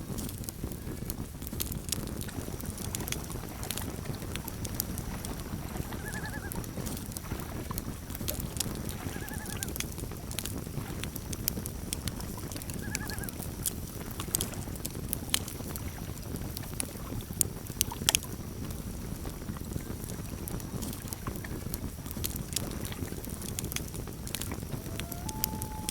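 Campfire crackling, with scattered sharp pops over a steady low rumble. A few short, faint animal calls sound mid-way, and a common loon's wail, rising and then holding, begins near the end.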